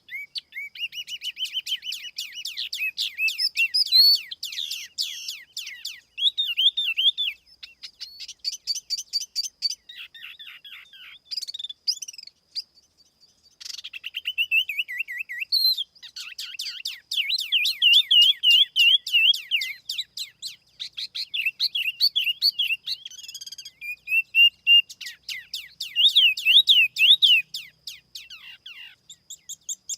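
Tiểu mi songbird singing a rapid, varied song of chirps, warbles and trills in phrases broken by brief pauses. It is a clean recording of the kind played as a lure to draw in wild birds.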